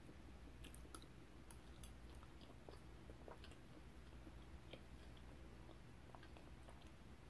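Faint, close-miked chewing of a mouthful of creamy potato salad: soft, wet mouth clicks and smacks scattered irregularly over a low steady hum.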